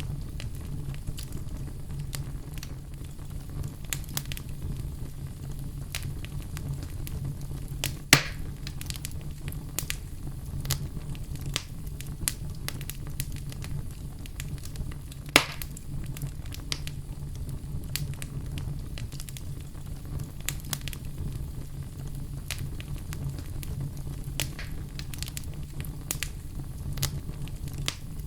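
Wood fire in a fireplace crackling steadily: many small snaps and crackles over a low, even rumble, with two louder pops about a third and halfway through.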